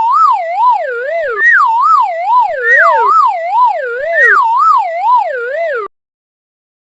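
Police-car siren sound effect: a loud wavering wail that wobbles up and down about twice a second while sliding downward, repeated four times, and cutting off suddenly about six seconds in.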